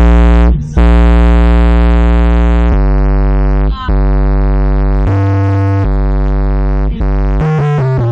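Electronic music played loud through a car's aftermarket sound system with two subwoofers: long held synthesizer notes over heavy bass, changing pitch every second or two, with short breaks about half a second and four seconds in.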